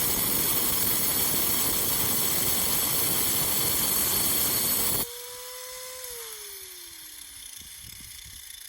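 Angle grinder cutting into a geode: a loud, steady grinding that cuts off suddenly about five seconds in as the trigger is released. The motor's whine then holds for a moment and falls in pitch as the disc spins down.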